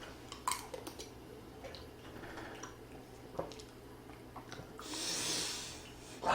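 Sounds of someone eating at a table: scattered soft clicks, and about five seconds in a long breathy hiss, like a breath out or a slurp.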